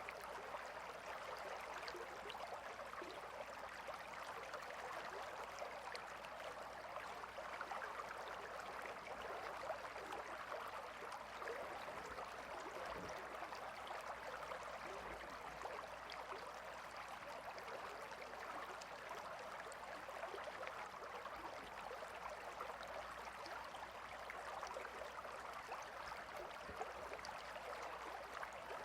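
A gentle river flowing over stones: a steady, even burble and rush of water with fine splashing texture.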